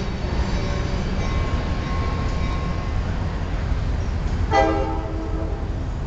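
Passenger train rolling slowly along the platform with a steady low rumble. About four and a half seconds in, the GP-30 diesel locomotive gives one short horn toot.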